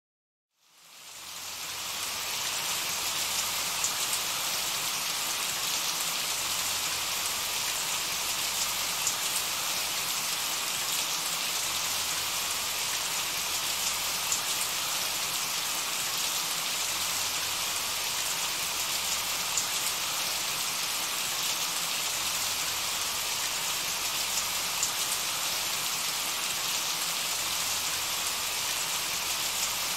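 Steady rain falling on a puddle and leaves, a dense even patter with scattered louder drop ticks, fading in from silence over the first two seconds.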